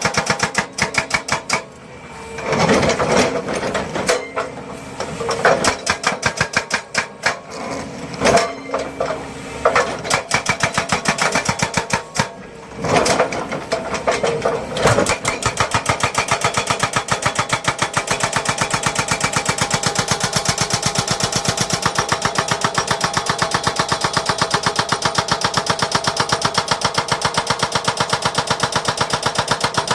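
Heavy construction machinery running with a fast, even mechanical rhythm. It surges and dips unevenly for about the first half, then runs steadily.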